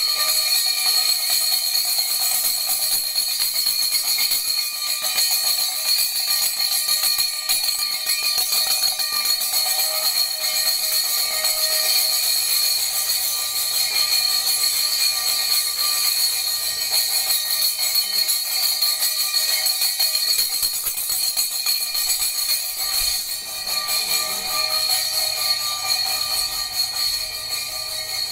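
A bell rung without pause, a loud continuous metallic ringing, used as a wake-up call for sleeping children. It eases slightly in the last few seconds.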